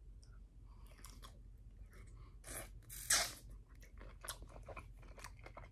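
Close-up chewing of a whole cooked shrimp dipped in cocktail sauce: irregular wet clicks and smacks of the mouth and teeth, with one louder noise about three seconds in.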